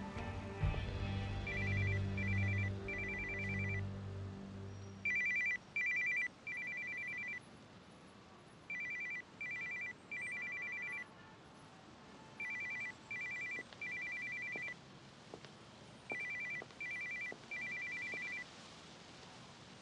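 Mobile phone ringtone going unanswered: a group of two short high electronic tones and a longer one, repeated five times about every three and a half seconds. Background music fades out in the first few seconds.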